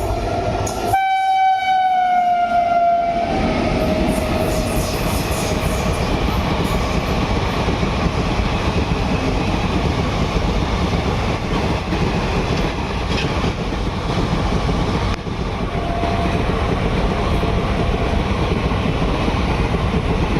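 A train horn blows for about two seconds near the start, its pitch sliding down as it fades, over the loud steady rumble and rush of a train running past at speed.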